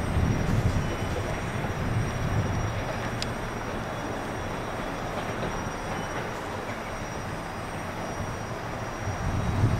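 Train running past on the track: a steady rumble of wheels on rails, a little louder near the start and again at the very end.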